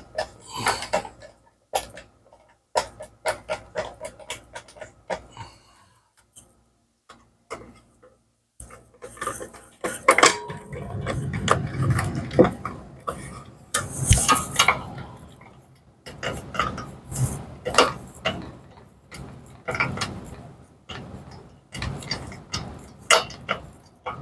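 Irregular clicks, knocks and rattles of tools and wooden birdhouse parts being handled while it is screwed together, with a denser, louder stretch of handling noise through the middle.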